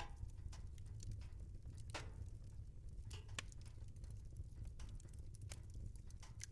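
Wood fire burning in a fireplace: a steady low rumble with irregular crackles and pops, two of them sharper and louder about two and three and a half seconds in.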